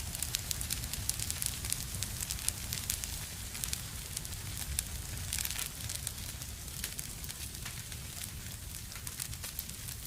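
Wood fire burning in a fireplace, crackling and popping irregularly over a low, steady rumble.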